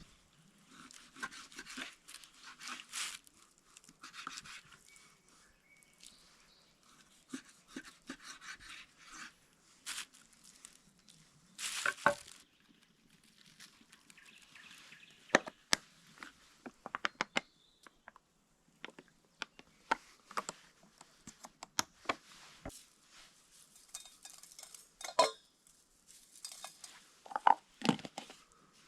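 Cookware and utensils clinking and knocking at irregular intervals as they are handled, with soft rustling in between.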